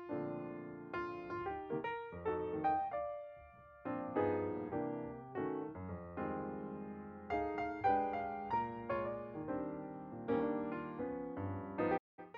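Gentle piano background music of single notes and chords, each struck and fading away; it cuts out for a moment near the end and then resumes.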